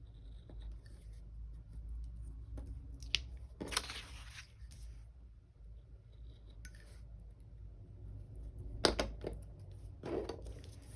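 Paper-crafting sounds: scissors and sticker paper being handled, giving a few short sharp snips or clicks, the sharpest about three and nine seconds in, with brief paper rustles between. A low steady hum sits underneath.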